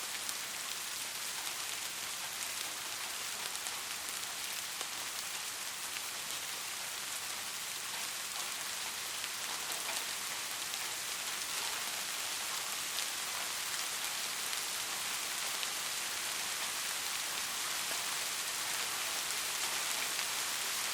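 Steady rain falling on a hard surface, an even hiss of many fine drops with occasional distinct drop ticks.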